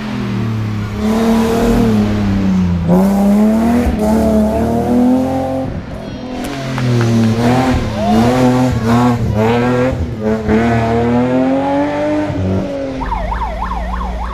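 Rally car engine heard from inside the car, pulling hard with its revs climbing and dropping again and again through gear changes and lifts. About a second before the end the engine note falls away and a wailing siren starts.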